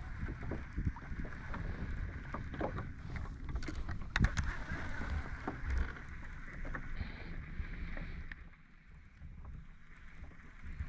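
Small fishing boat moving on the water: water lapping and sloshing against the hull with scattered knocks, one louder knock about four seconds in, and wind rumbling on the microphone.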